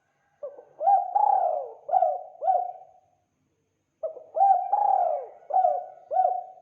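Spotted dove cooing: two phrases of about five notes each, a second's pause between them.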